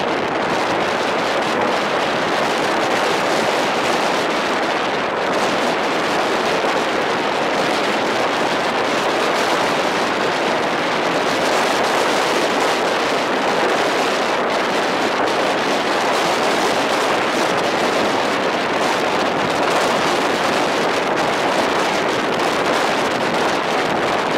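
Passenger express train running at speed: a loud, steady rush of air buffeting the microphone over the running noise of the coach on the rails.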